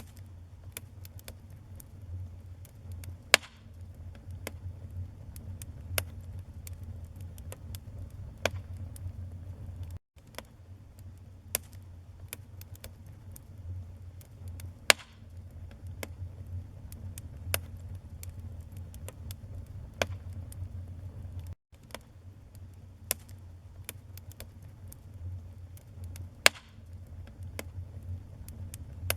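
Wood fire burning in a fireplace: a steady low rumble of flames with frequent small crackles and a few loud, sharp pops. The sound cuts out for an instant twice.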